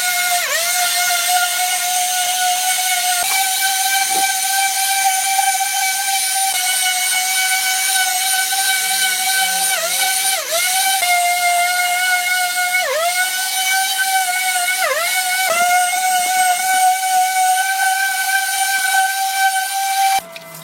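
A high-speed rotary power tool whining steadily with a hiss, its pitch dipping briefly several times as it is pressed into the work and then picking back up.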